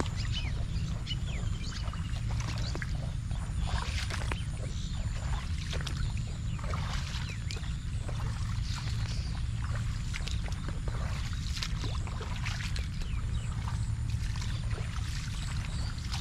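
Monsoon rain falling steadily, with many drops pattering irregularly close to the microphone over a steady low rumble.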